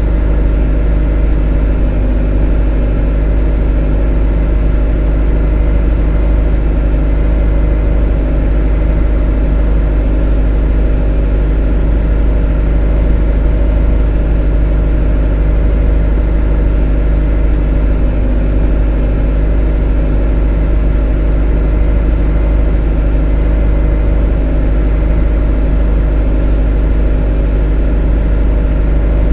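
A motor running at one constant speed: a deep, even hum with a steady drone of overtones above it, no change in pitch or level.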